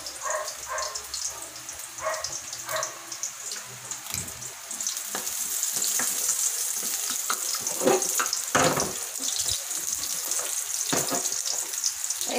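Sliced onion and garlic sizzling in hot cooking oil in a wok, with the spatula now and then scraping and knocking against the pan. The sizzle grows louder about halfway through.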